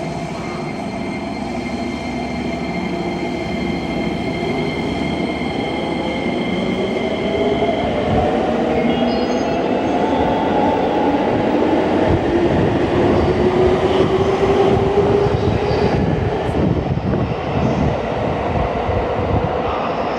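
Electric commuter train pulling away from the platform: its traction motors whine and climb steadily in pitch as it speeds up, over a rising rumble of wheels that is loudest about two-thirds of the way through.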